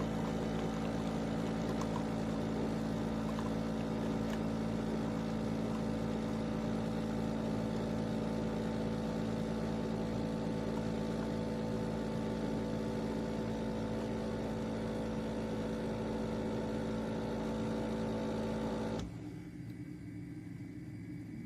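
De'Longhi Rivelia automatic espresso machine running with a steady, even hum, then shutting off abruptly a couple of seconds before the end.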